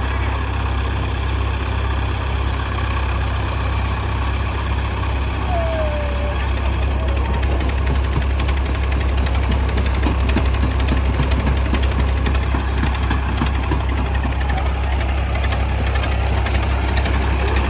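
Diesel tractor engines running steadily with a heavy low drone.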